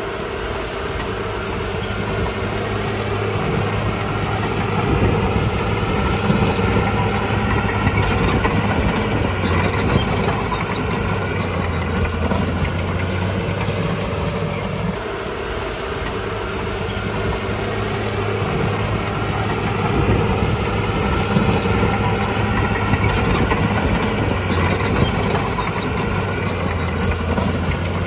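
Crawler bulldozer's diesel engine running steadily, its low note shifting about halfway through, with two short stretches of high metallic clicking.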